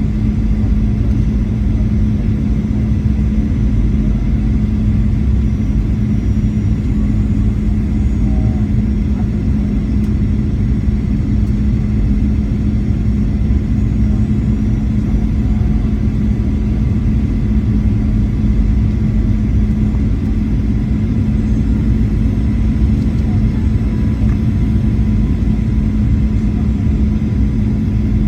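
Boeing 737-800 jet noise: a steady low rumble with a constant hum that holds unchanged throughout.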